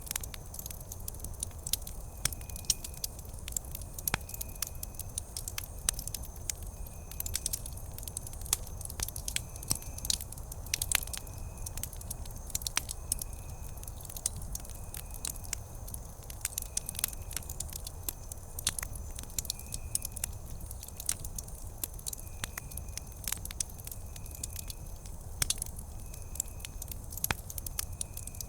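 Wood campfire crackling, with many sharp irregular pops and snaps over a low steady rumble.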